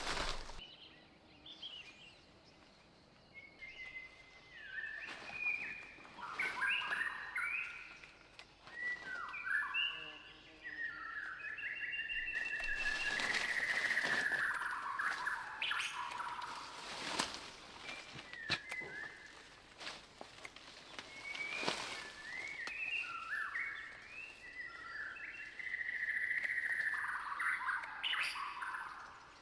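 Birds singing in repeated short warbling phrases of quick stepping notes, with a few sharp clicks or snaps now and then.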